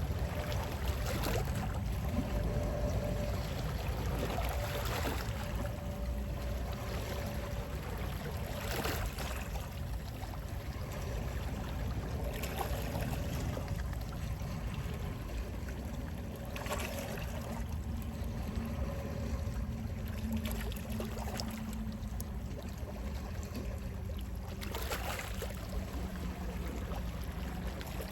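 Gentle sea waves lapping, with a steady low rush underneath and a brief splash every few seconds.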